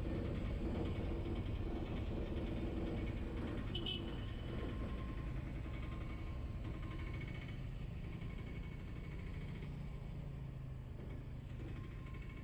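Ride noise from a vehicle moving through city traffic: a steady engine hum under wind and road rumble, easing off slightly in loudness toward the end, with a short faint high tone about four seconds in.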